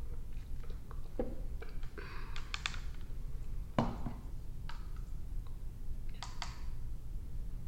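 Irregular light clicks and short brushing strokes, close to the microphone, spaced a second or so apart, over a steady low hum.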